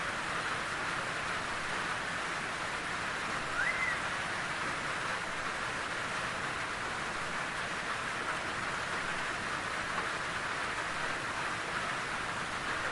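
Steady rain falling, an even hiss with no let-up, and a single short rising chirp about three and a half seconds in.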